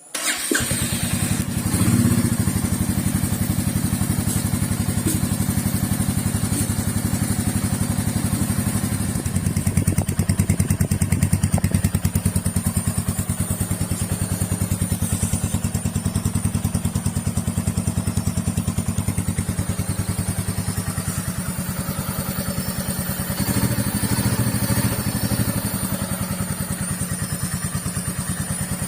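Royal Enfield Meteor 350's single-cylinder engine running at idle through its stock exhaust, with an even pulsing beat. It rises slightly in level about ten seconds in and again near the end.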